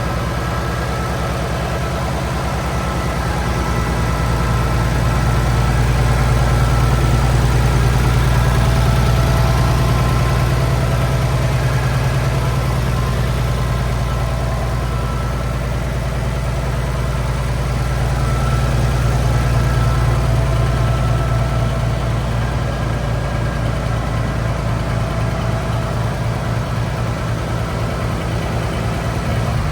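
Oliver 1650 tractor engine running at a steady idle, its even firing pulses unbroken, swelling slightly louder twice along the way.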